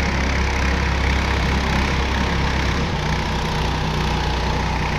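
A boat's engine running steadily under way, its note shifting slightly about three seconds in, with a broad rush of water and wind noise beneath.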